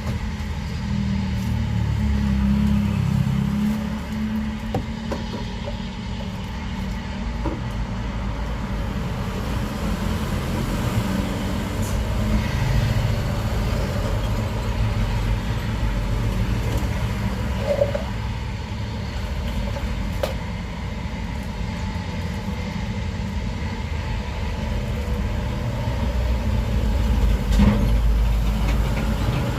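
Steady low rumble of road traffic passing close by, with a few faint clicks.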